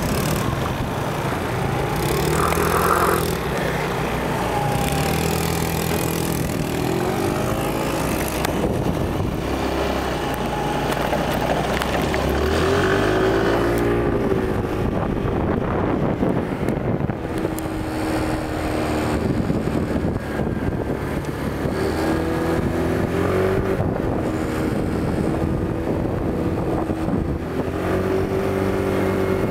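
A motor vehicle's engine running while being ridden, its pitch rising and falling again and again as it speeds up and slows down, over a steady rush of wind and road or water noise.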